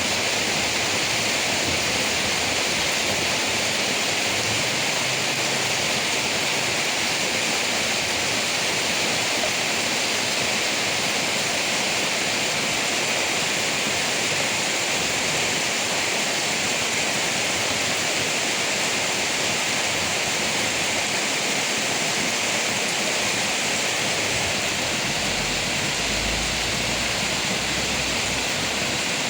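Steady rain falling on leaves, a dense, even hiss without pause.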